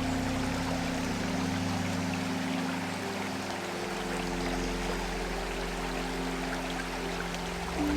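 Running water flowing steadily, like a stream, with soft held low notes of background music underneath that shift about three seconds in and again near the end.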